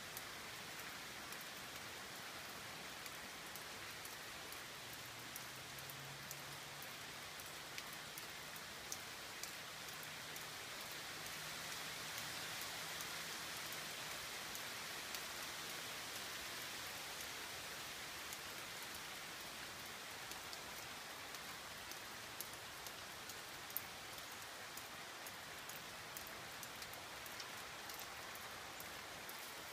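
Rain falling steadily, with many sharp drop ticks through the hiss; it grows a little heavier around the middle.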